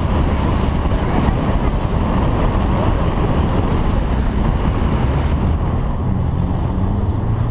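A car engine running, mixed with steady wind noise on the microphone.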